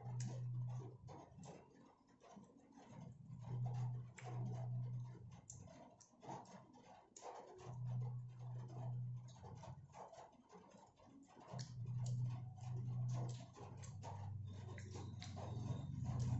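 Close-up eating sounds: quick wet clicks and smacks of chewing fried chicken and rice, eaten by hand, with a low steady hum that comes and goes every few seconds.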